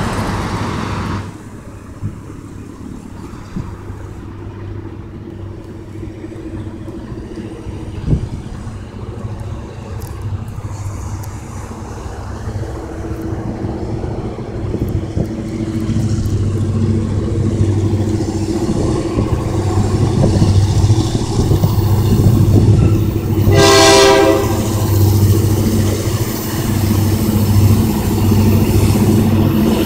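A car drives past at the start; then the diesel engines of an approaching Kansas City Southern de México freight train grow steadily louder, and about six seconds before the end the locomotive sounds one short horn blast.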